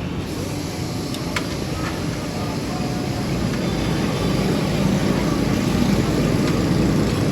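Toyota Corolla Altis on the move: engine and road noise growing steadily louder, with a light click about one and a half seconds in.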